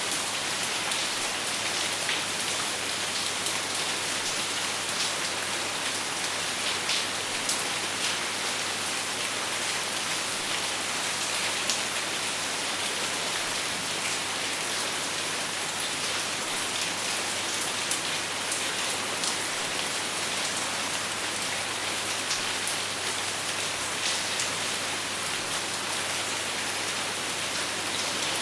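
Steady rain falling without thunder, an even hiss with many individual drops pattering and ticking on a surface.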